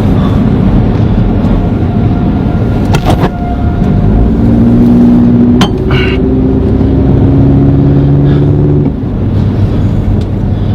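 Strong wind rumbling and buffeting against the microphone, loud and unbroken. From about four seconds in, a steady droning tone with several pitches sounds alongside it for about five seconds, then stops.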